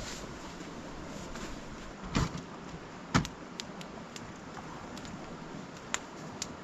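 Two sharp knocks about two and three seconds in, then a few lighter clicks, over a steady rushing background.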